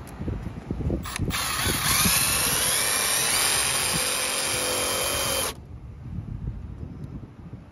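A few ratcheting clicks, then a power drill runs for about four seconds, its whine rising in pitch, before stopping suddenly.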